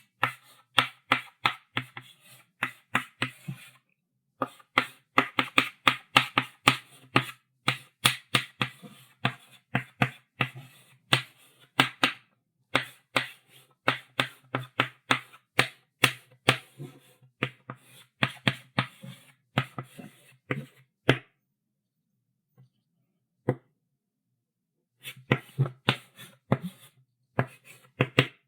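Chalk writing on a blackboard: quick taps and short scratching strokes, several a second, in runs broken by brief pauses. A longer pause with a single tap comes in the last third.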